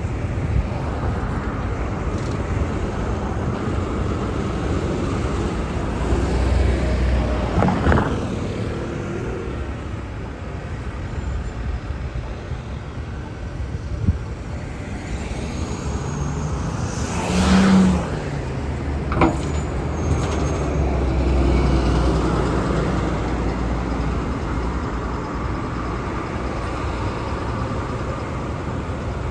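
Street traffic on a busy road, cars and buses passing with a steady rumble. There is a short, louder burst about two-thirds of the way through.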